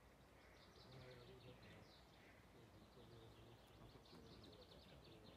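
Near silence, with faint bird chirps and rapid high trills and faint distant voices.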